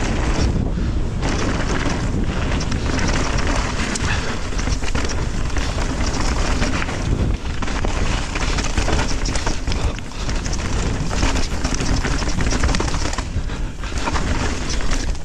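Mountain bike descending a rough, wet downhill trail at speed: wind rushing over the microphone with the tyres rolling over dirt and rocks and the bike rattling in a constant run of clicks and knocks.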